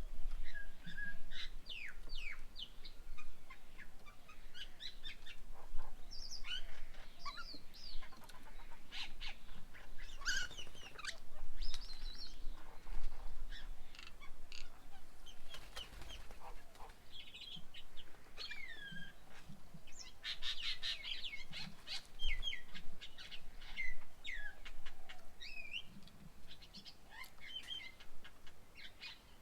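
Several birds chirping and calling over one another, with short clipped notes and rising and falling whistles, and a quick run of rapid notes about two-thirds of the way through.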